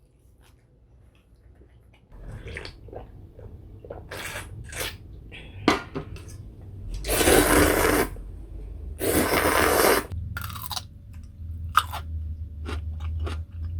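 Close-miked mukbang eating sounds: a person chewing and crunching on a meal of cold noodles with crisp young-radish kimchi and dumplings, in short scattered crunches. Two louder noisy sounds of about a second each come about seven and nine seconds in.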